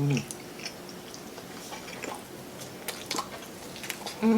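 Close-up eating sounds: soft chewing and mouth noises with scattered small clicks.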